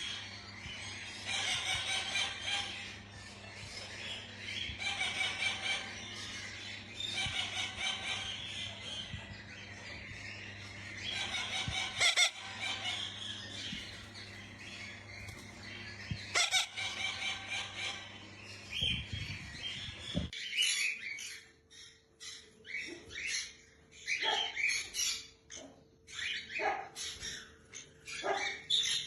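Pet parrots calling in repeated bouts a few seconds long, over a steady low hum. About twenty seconds in, the background changes and short calls come quickly one after another.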